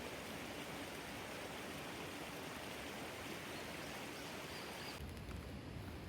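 Steady, even hiss of outdoor night ambience, with a shift in tone about five seconds in.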